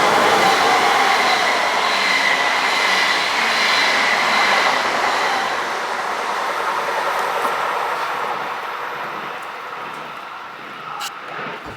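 Train running past and moving away, a loud rail rumble with a steady whine on top, fading steadily.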